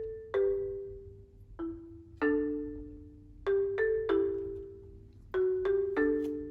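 Background music: a light melody of struck mallet-percussion notes, marimba or xylophone-like, each note ringing and fading, one or two notes a second.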